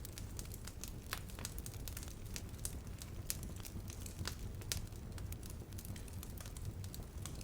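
Campfire crackling, with frequent sharp, irregular pops and snaps over a steady low rumble of the burning wood.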